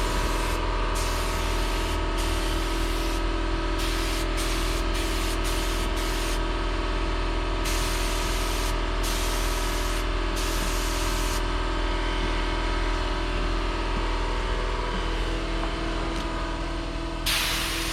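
Pneumatic spray gun hissing in short on-and-off bursts, several through the first ten seconds or so and one more near the end, over a steady mechanical hum with several steady tones.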